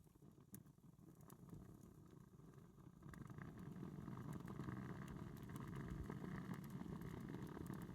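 Wood campfire burning, with scattered crackles and pops over a low, steady rush of flame that grows louder about three seconds in.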